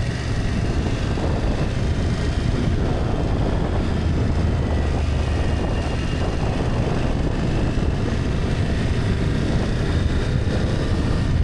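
BMW F800GS parallel-twin engine running steadily while riding, mixed with wind rushing over the microphone.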